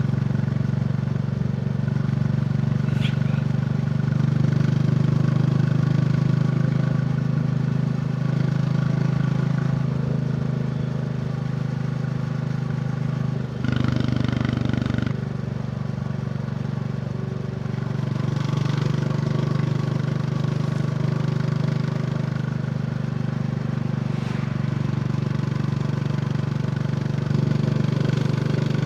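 Royal Enfield Bullet 350's single-cylinder engine running steadily at cruising speed under a rider. Its note briefly changes about halfway through, then settles back to the same steady running.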